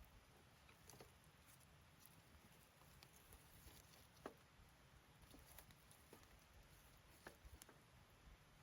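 Faint crackling of a wood campfire: a few scattered pops and ticks over a low, quiet background.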